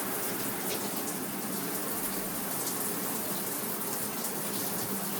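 Water running steadily from a newly hooked-up shower, its cold side just turned on for a first test of the plumbing.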